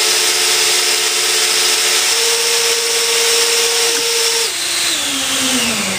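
Electric ducted fans on a model airliner whining steadily at about half power with a strong rushing hiss. About four and a half seconds in the whine drops and slides down in pitch as the fans spool down after a failure.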